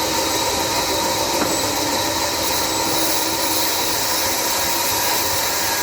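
A sawmill band saw running steadily, a constant hiss with a steady whine over it.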